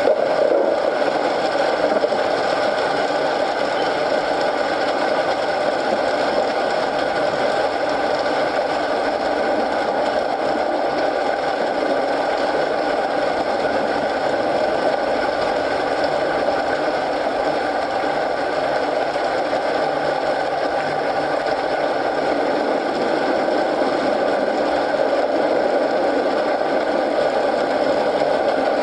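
Steady rain mixed with a crackling wood fire in a fireplace, an even, unbroken wash of sound.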